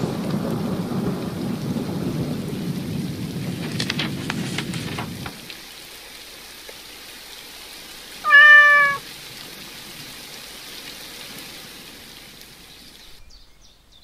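Cartoon rain sound effect, heavy with a low rumble at first, dropping suddenly to lighter rain about five seconds in and fading away near the end. A cartoon cat meows once, loudly, about eight seconds in.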